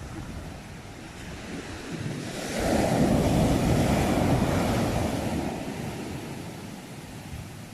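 Sea waves on a shore: one wave builds about two seconds in, breaks and washes loudest for a couple of seconds, then slowly draws back, with wind on the microphone.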